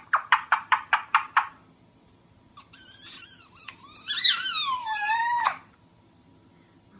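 A parrot calling: a quick run of about eight short chirps, then after a pause a longer, harsh squawk that slides up and down in pitch.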